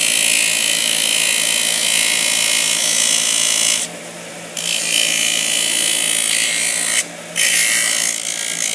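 Small high-speed power tool grinding a plastic medicine bottle, a loud high-pitched grind that cuts out briefly about four seconds in and again about seven seconds in.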